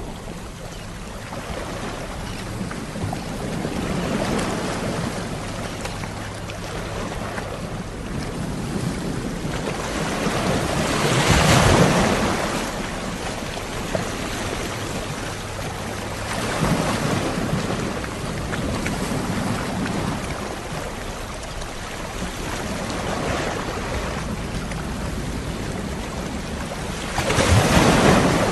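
Sea waves breaking and washing up on a shore. The surf swells and ebbs every few seconds, with the two biggest breakers about twelve seconds in and near the end.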